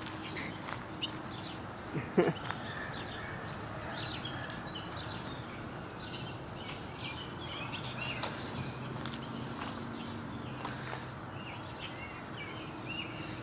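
Small birds chirping outside: many short, high chirps scattered throughout, over a steady low background hum. A brief louder sound about two seconds in.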